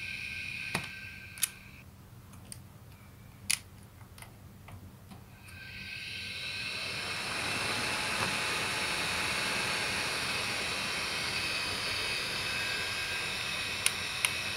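Laptop cooling fan with a worn bearing, running with a high, steady whine and hiss. Early on it quietens, with a few sharp clicks, then spins back up with a rising whine that levels off loud and steady. The grinding, cricket-like noise is the sign of bearing wear and a widened bearing clearance.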